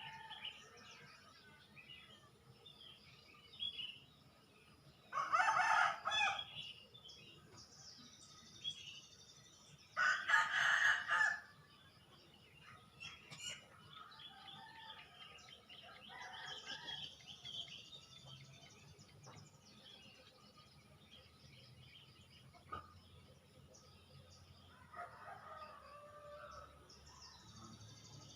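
A rooster crowing twice, each crow lasting over a second, about five seconds apart, over scattered chirping of small birds.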